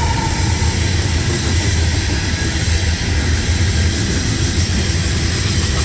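A train passing close by: a loud, steady, deep rumble of wheels and cars on the rails with a constant hiss over it.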